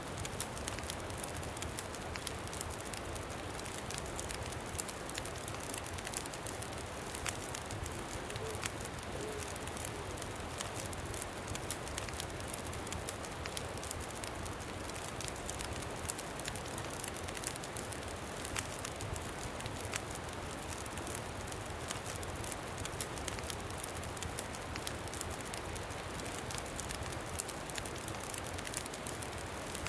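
Campfire crackling with frequent small sharp pops over a steady rush of wind.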